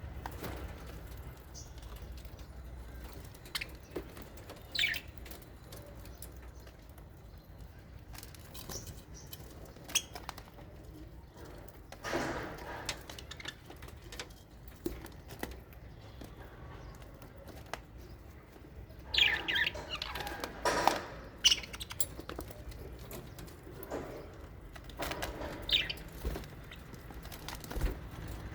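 Small pet parrots in an aviary: scattered wing flaps and short high chirps, busiest about twenty seconds in.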